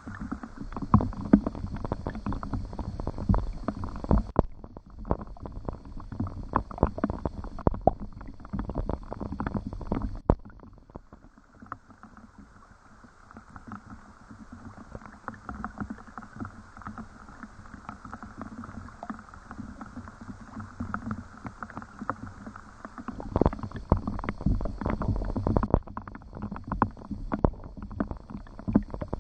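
Rain falling, a dense irregular patter of drops close by. It eases off a little before halfway and picks up again near the end.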